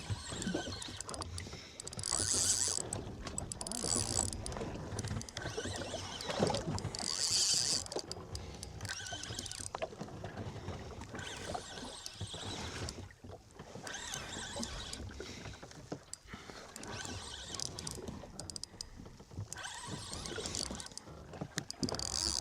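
Sea water slapping and sloshing against a small fishing boat's hull, with a few brief bursts of hiss, the loudest about two and a half and seven and a half seconds in.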